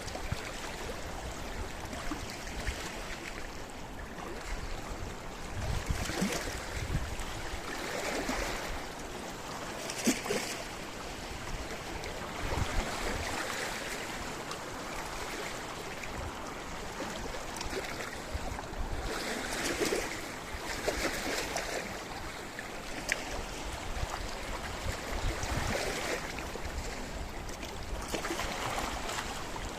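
Sea waves washing against a rocky shore, a continuous surf noise that swells every few seconds as waves break, with scattered short splashes and clicks of water among the rocks.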